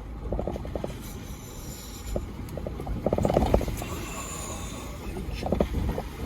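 Toyota 4Runner crawling up a steep rocky trail in four-wheel low: a low engine and drivetrain rumble with bunches of rapid clicking and crunching as the tyres grind over loose rock. There are four such bunches, the loudest a little past halfway.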